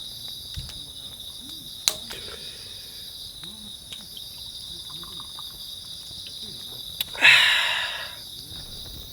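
Insects chirring steadily in high continuous bands, with a few light clicks. About seven seconds in, a short loud hissing rush that fades over about a second.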